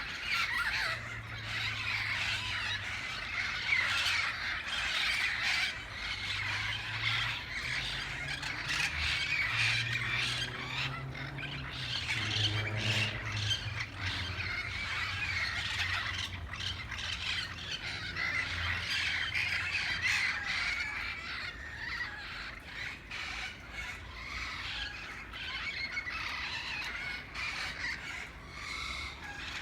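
A flock of green, red-headed parrots squawking continuously, many harsh overlapping calls at once while they feed in a tree.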